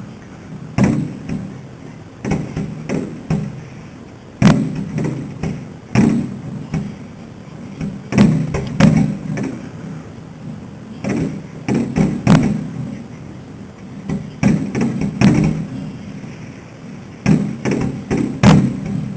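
Fireworks finale: aerial shells bursting in a rapid, irregular barrage of booms, some single and some in quick clusters, each trailing off in a low rumble.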